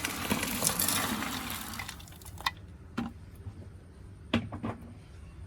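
Loose potting soil being handled: a rushing, pouring-like sound for about two seconds, then a few sharp clicks and knocks.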